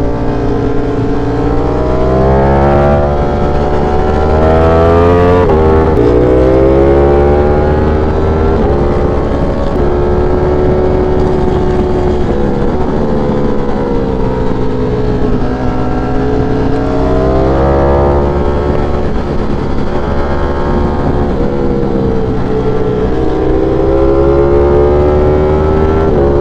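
V4 sport motorcycle engine under way, its pitch climbing under throttle and falling back several times as the rider shifts or rolls off, over a steady low rumble.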